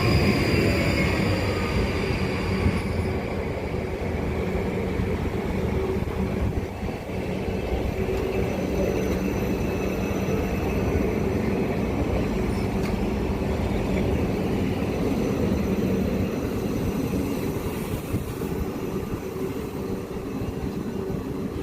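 Electric multiple-unit train running along the line: a steady rumble of wheels on rail under a constant motor hum, with a falling whine in the first few seconds.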